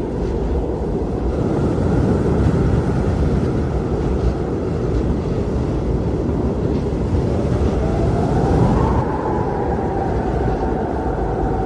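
Blizzard wind blowing hard as a steady, deep rushing noise. A whistling tone rises and falls in it about two-thirds of the way through.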